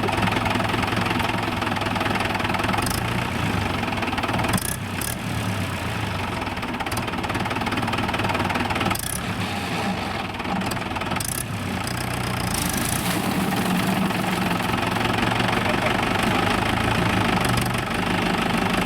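Tractor diesel engine running steadily with a knocking chug, dipping briefly a few times.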